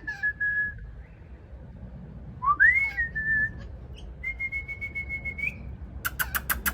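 Long, pure whistled notes, three in turn; the second slides sharply up before holding steady. Near the end comes a fast run of sharp clicks, about eight a second.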